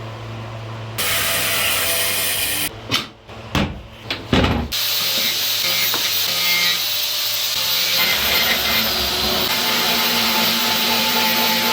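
Power tools cutting and shaping wood, loud and steady, broken by several abrupt cuts and short bursts about three to five seconds in.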